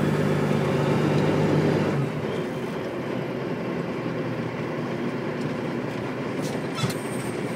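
Dump truck engine running with a steady hum that drops away about two seconds in, leaving a rough, even noise.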